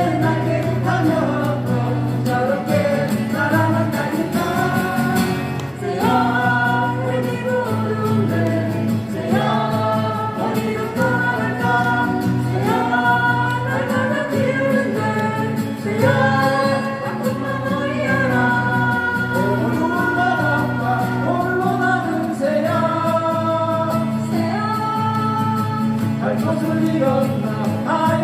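A song performed live: voices singing together over acoustic guitar accompaniment, amplified through a PA system.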